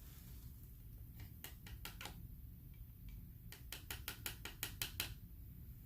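Light, sharp clicks and taps of paint tools and small containers being handled: a few about a second in, then a quick run of about ten clicks, several a second, that stops about five seconds in.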